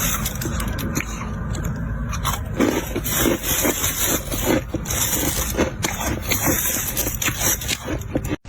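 Ice slabs crunching and scraping: a rough scrape at first, then from about two and a half seconds in a quick, irregular run of sharp cracks and crunches. The sound cuts out briefly just before the end.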